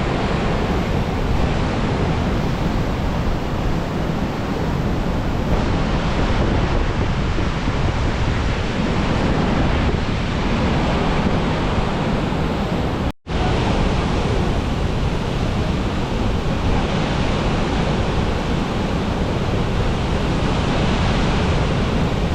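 Floodwater rushing through the open spillway gates of a dam: a steady, loud noise of falling water that cuts out for an instant about thirteen seconds in.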